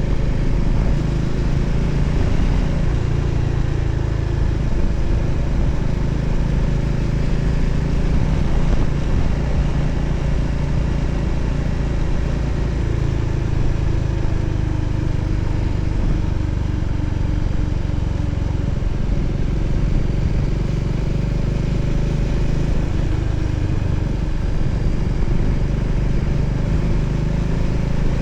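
Voge 300ACX motorcycle's single-cylinder engine running steadily, with steady wind noise over it.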